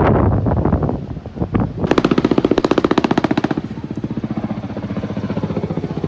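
Helicopter rotor chopping in a fast, even beat of about a dozen pulses a second, starting about two seconds in after wind buffets the microphone.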